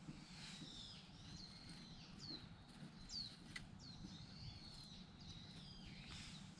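Faint bird calls: a series of short high notes, several sliding quickly downward, with one sharp click about three and a half seconds in.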